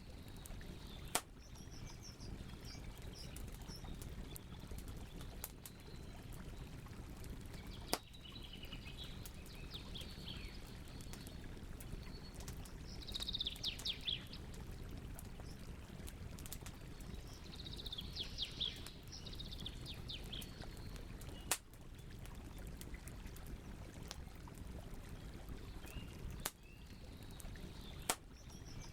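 Campfire crackling over a steady low hiss, with a few sharp wood pops spread through. Birds sing short chirping phrases in the background, clustered in the middle.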